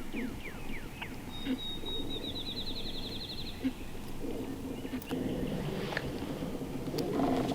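Songbirds singing: a run of quick down-slurred whistled notes that ends about a second in, then a high, fast trill of about two seconds. From about four seconds in, a low rushing noise rises underneath.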